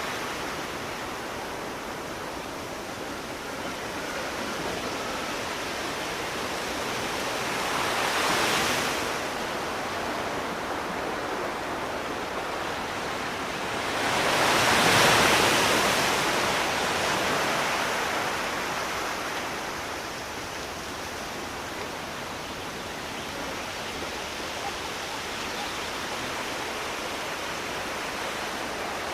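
Sea surf: a steady wash of water with waves swelling and breaking, a smaller one about eight seconds in and a bigger one around fifteen seconds in, then easing back.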